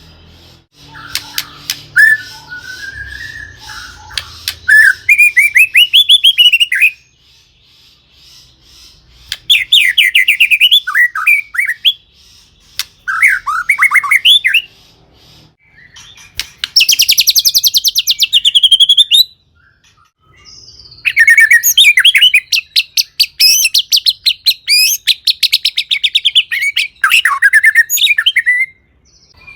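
White-rumped shama (murai batu) singing a varied song in four long bursts separated by short pauses. It mixes rapid rattling trills with swooping whistled phrases.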